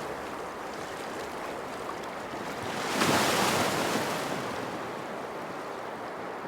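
Ocean waves washing on a shore, one wave surging in about three seconds in and fading away as it washes back.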